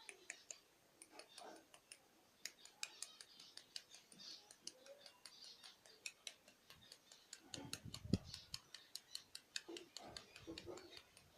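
A fork crushing a hard-boiled egg with its shell on: a run of small, irregular clicks and shell crackles, with a few duller knocks around two-thirds of the way in, the loudest about eight seconds in.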